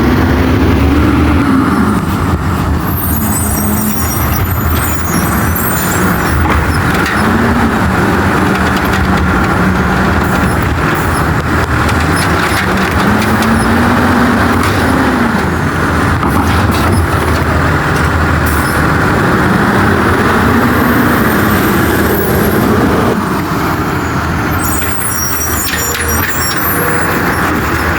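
Autocar WX64 refuse truck's engine revving up and dropping back again and again as it powers the Amrep body's hydraulics to pack trash. Short high-pitched bursts come in twice, a few seconds in and near the end.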